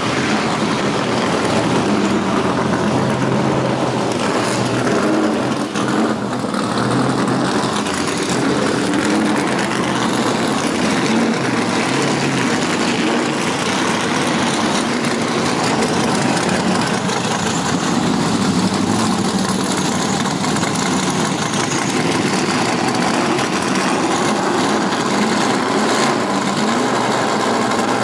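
First-generation Chevrolet Camaro Trans Am race car's V8 idling steadily, a loud, even engine note with no big revs.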